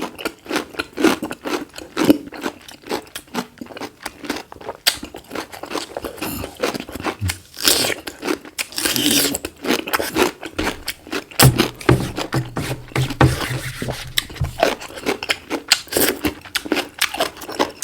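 Close-miked chewing of chicken: a dense, irregular run of wet mouth clicks, smacks and crunches. A low steady hum comes in for a couple of seconds past the middle.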